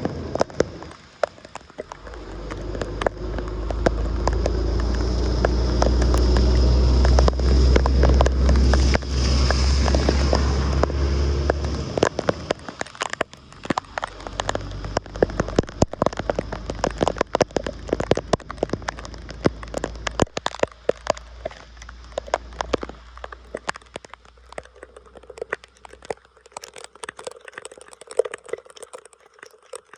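Water splashing and pattering with dense crackles and clicks. A heavy low rumble under it during the first ten or so seconds; after that the crackling thins out and grows quieter.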